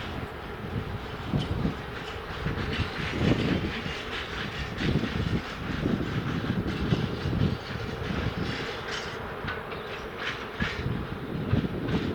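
Train rolling past, its wheels clattering over the rails in a steady run of irregular thumps.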